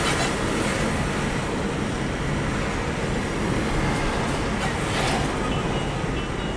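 Steady engine and road rumble of a moving truck, with brief hissy swells near the start and about five seconds in.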